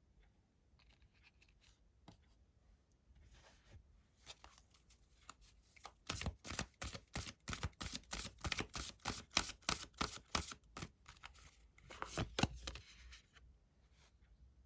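Tarot cards being shuffled and handled: faint rustling, then from about the middle a quick run of sharp card snaps, about four a second, with a last flurry near the end before it dies away.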